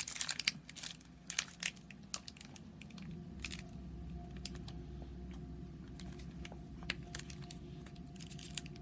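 Plastic snack wrapper crinkling and rustling in short crackles, thinning to occasional clicks; a steady low hum comes on about three seconds in.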